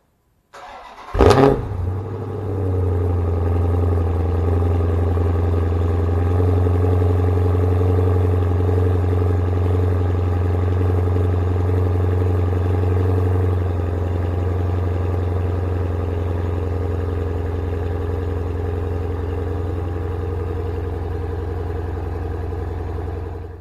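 Cold start of a 2014 Dodge Charger SRT8's 6.4-litre 392 Hemi V8 with a mid muffler delete. The starter cranks briefly, and the engine catches with a loud flare of revs about a second in, then settles into a steady fast cold idle that eases a little about halfway through. The exhaust is loud when first cranked and quieter once it idles down.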